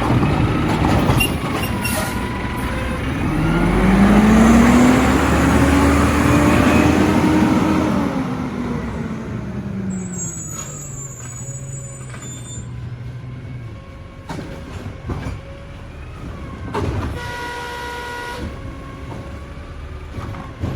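Mack LR garbage truck's engine revving up over a few seconds, holding, then easing back down to idle, as happens when the engine speeds up to drive the hydraulics of the Heil Rapid Rail automated arm. Midway there is a brief high hiss of air, and a short tone sounds near the end.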